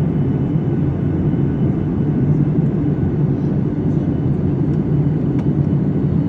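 Steady drone of an airliner heard from inside the cabin in flight: engine and airflow noise, even and unbroken.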